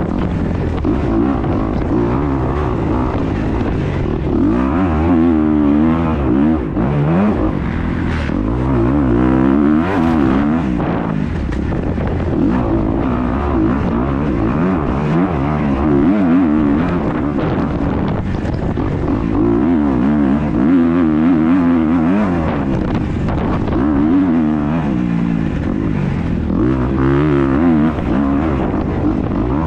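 Motocross dirt bike engine at race pace, heard on board, its pitch rising and falling over and over as the rider opens and rolls off the throttle through the lap, with rushing wind noise.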